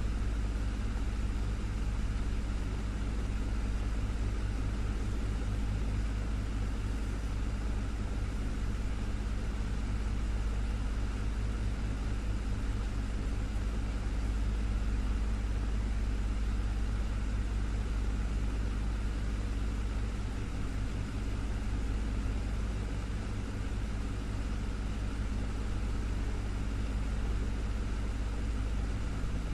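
Desktop fan running steadily, with a low motor hum under a soft, even rush of air.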